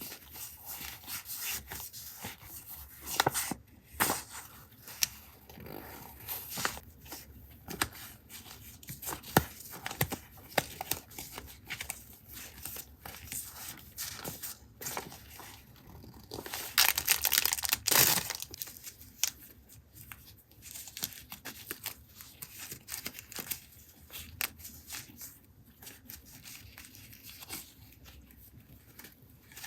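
Paper and packaging handled close up: crinkling and rustling with scattered light taps, and a longer tearing stretch a little past the middle.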